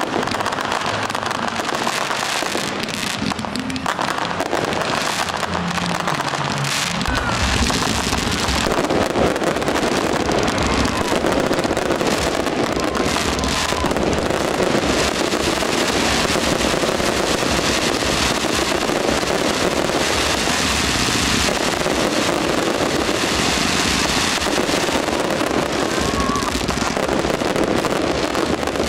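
Fireworks going off in rapid succession, bursts overlapping into a continuous crackle and rumble that grows heavier about seven seconds in.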